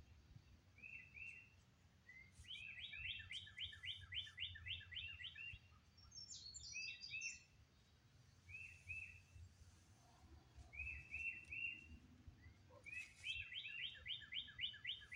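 Songbirds singing: one bird twice delivers a fast run of about a dozen chirped notes, with short two- or three-note phrases between the runs and a brief higher twitter about six seconds in.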